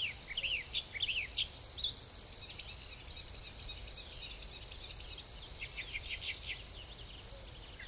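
Crickets trilling steadily in one high, unbroken tone, with birds chirping in short quick notes on and off over it.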